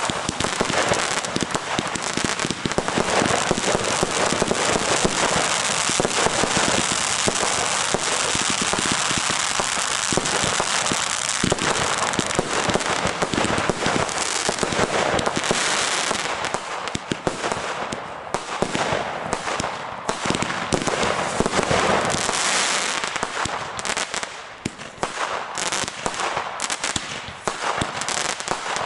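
Many fireworks and firecrackers going off at once: a continuous crackle of bangs and pops. Near the end it thins into more separate sharp cracks.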